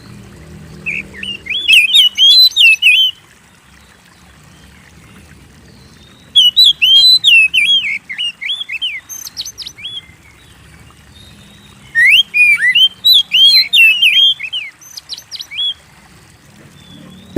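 Oriental magpie-robin (kacer) in full song: three loud bouts of rapid, varied whistled phrases, starting about a second in, about six seconds in and about twelve seconds in, each lasting two to four seconds.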